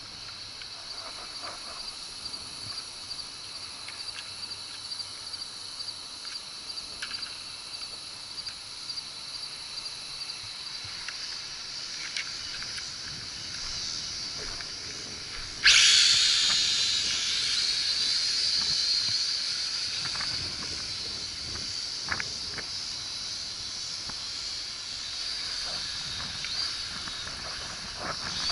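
Syma X5C toy quadcopter's small motors and propellers whirring in flight, a steady high hiss that jumps suddenly much louder about halfway through and then slowly eases.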